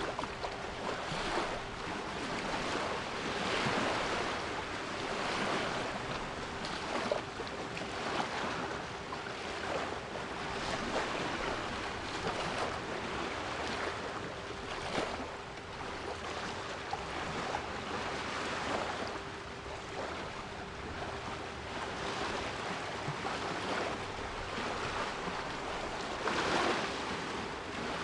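Sea waves washing in, a steady rush that swells every few seconds as waves break, with a steady 396 Hz pure tone held underneath.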